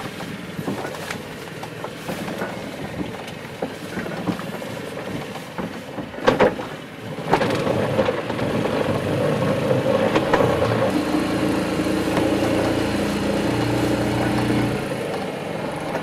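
A small boat motor running. It speeds up about seven seconds in to a louder steady drone, with knocks and clunks before that.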